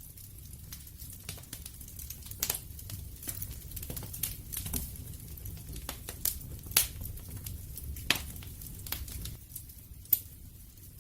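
Wood fire crackling: irregular sharp pops and snaps of varying loudness over a low steady rumble, with a few louder pops in the second half.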